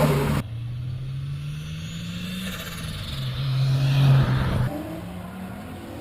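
Car engines running and revving in short spliced clips. The sound cuts off abruptly about half a second in and again about a second before the end, and in between the engine note climbs slowly in pitch.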